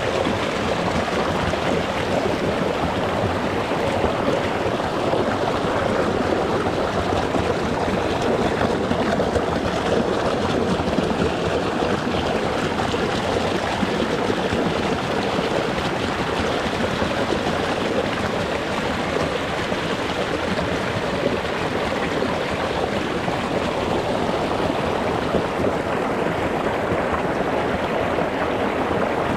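A rocky mountain stream flowing over stones, heard close to the water's surface: a steady, even rush of running water.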